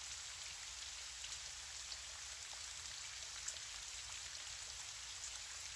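Gentle rain falling steadily: a faint, even hiss with a few scattered drop ticks.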